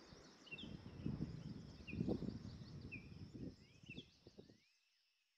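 Faint chirping of birds, short calls about a second apart, over a low noise that swells and ebbs; everything fades out a little over four seconds in.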